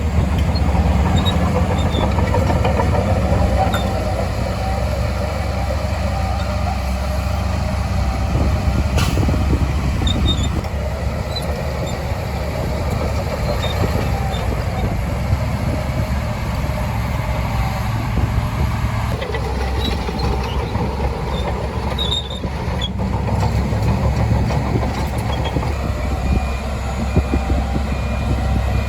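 Shantui DH17C2 bulldozer's diesel engine running steadily under work, a continuous low drone whose note shifts slightly now and then.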